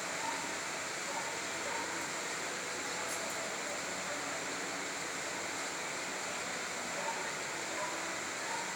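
Steady hissing outdoor background noise, with a few faint, brief chirps.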